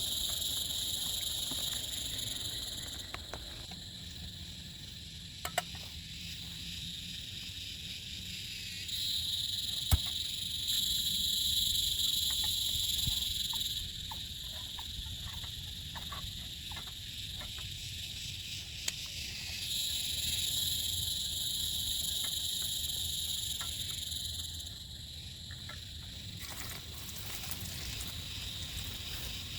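Insects calling in a steady, high-pitched chorus that swells and fades in waves, over a low background rumble with a few scattered clicks.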